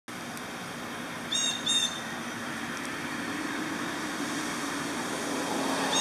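Steady outdoor background noise with two short bird calls in quick succession about a second and a half in, and another call near the end. A faint low drone comes in about halfway.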